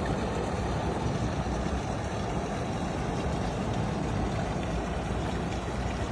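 Boat engine running steadily, an even low rumble mixed with water noise.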